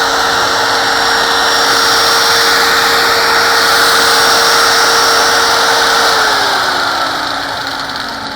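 Handheld 4-inch angle grinder running at full speed, then switched off about six seconds in and winding down with a falling whine. A steady machine hum from a nearby store machine, called a paper shredder, carries on underneath.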